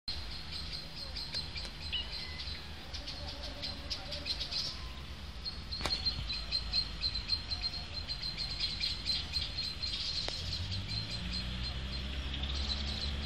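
Small birds chirping with many short, rapid, high calls. There is one sharp click about six seconds in, and a low rumble comes up in the last few seconds.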